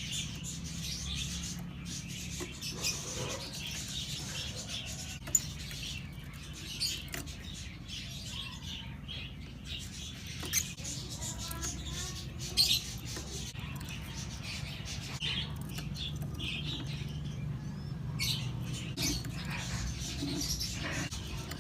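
Lovebirds scratching and rustling about in their nesting material, with a few short, sharp chirps.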